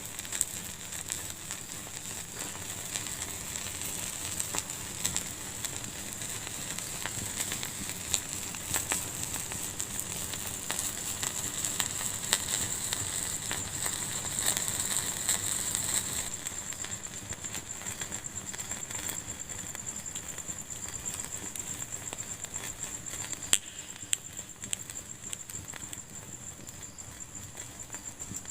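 A fire in a fireplace crackling and popping over a steady hiss, busier in the first half and calmer after about halfway, with one sharp pop near three-quarters of the way through.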